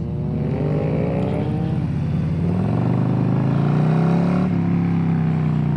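Harley-Davidson Softail motorcycle's engine accelerating through the gears: the revs climb, drop at a shift about two seconds in, then climb again and settle to a steady cruise, with wind rushing past.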